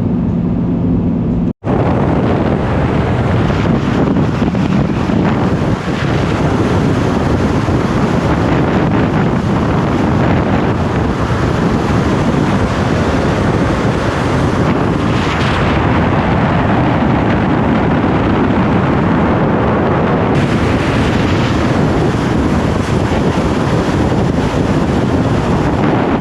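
Strong wind buffeting a microphone that is moving at road speed, with the rumble of the vehicle and road underneath. The sound is loud and steady, broken once by a brief cut to silence about a second and a half in.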